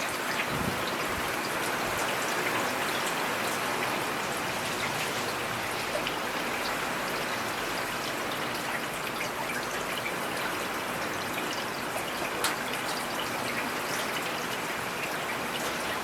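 Steady rain falling, an even hiss of rain with scattered louder individual drops ticking through it.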